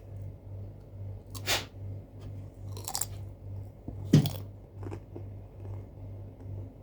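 A person biting into and chewing crunchy food, with three loud crunches and a fainter one.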